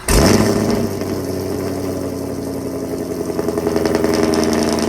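Full-bolt-on Camaro SS V8 on a cold start: it catches with a sudden loud flare, then settles into a steady cold idle.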